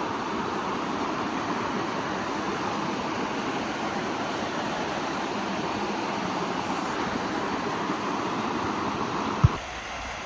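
Waterfall close by, a steady dense rush of falling water. Near the end a short click cuts it off, and a quieter rush follows.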